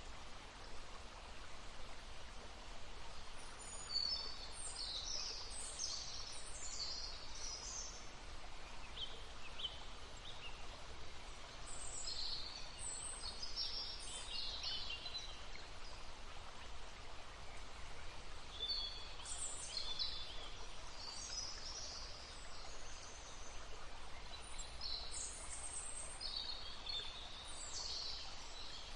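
Songbirds chirping and singing in short high bursts every few seconds over the steady murmur of a brook.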